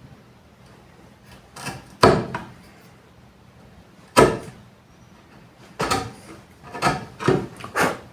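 A series of about seven separate sharp knocks and thuds, irregularly spaced, the loudest about two and four seconds in.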